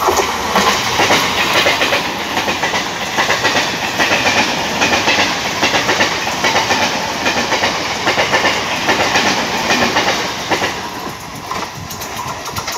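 Central Railway suburban EMU (electric multiple unit) train passing close at speed: a continuous rapid clickety-clack of wheels over the rail joints with the rattle of the coaches going by.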